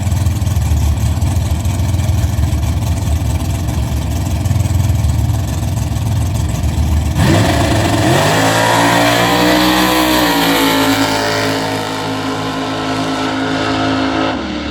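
Drag-racing car engines: a loud, deep rumble, then about seven seconds in an engine revs up sharply with a rising pitch and holds at high revs, as in a run down the strip.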